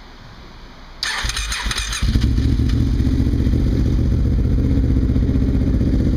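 Kawasaki KFX V-Force ATV V-twin engine started cold: about a second of harsh, hissy noise as it is cranked, then it catches about two seconds in and settles into a steady idle. The brief noise at start-up is one the owner hears only when the engine is cold and cannot identify; it goes away once the engine is running.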